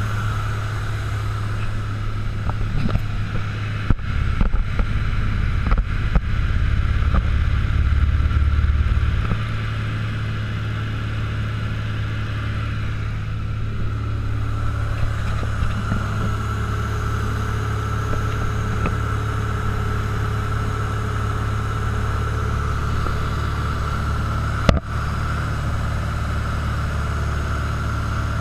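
Cessna 172's piston engine and propeller running at a steady drone in flight. The low rumble is louder for a few seconds and then eases about nine seconds in. A single sharp click comes near the end.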